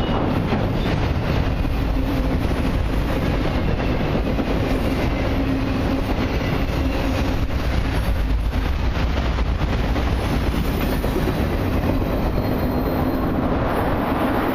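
Freight cars of a long intermodal and autorack train rolling past, a steady rumble of steel wheels on rail with light clicking as the wheels cross the rail joints.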